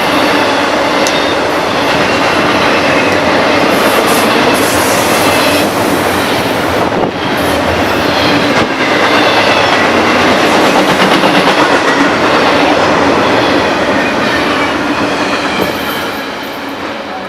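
A train passing close by on the BNSF mainline, with a steady loud rush of wheels on rail that trails off near the end.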